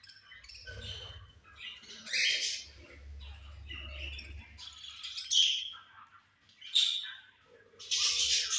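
A flock of budgerigars chirping and squawking, many short calls overlapping, with a louder burst of chattering near the end.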